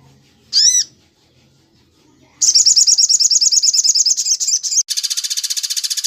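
Bird calls from a bird-training recording. A single high slurred whistle comes first, then a fast run of high repeated chattering notes, and at about five seconds an abrupt switch to a harsh, very rapid trill.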